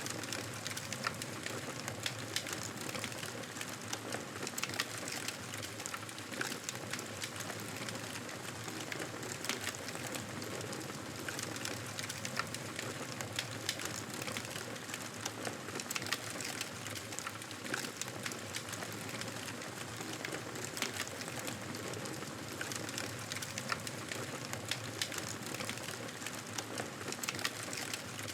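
Wood fire crackling steadily, with frequent irregular sharp pops and snaps over a soft hiss.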